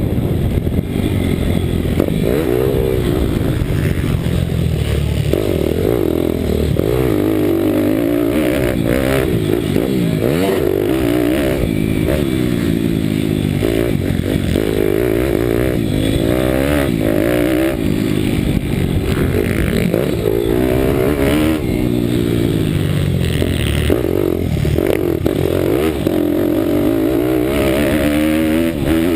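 Pitbike's single-cylinder four-stroke Daytona Anima 190 cc engine revving hard, its pitch climbing and dropping again and again as the rider accelerates, shifts and backs off.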